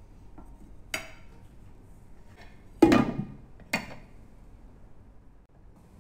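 Glass pot lid knocking onto the rim of a cooking pot: a small knock about a second in, then a louder ringing clatter near three seconds and a shorter knock just after as it settles.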